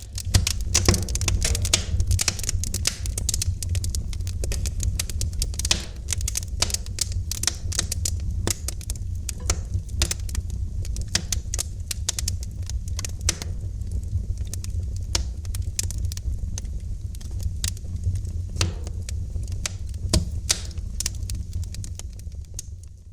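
Wood fire crackling: irregular sharp pops and snaps over a steady low rumble. It starts abruptly at the beginning and fades away near the end.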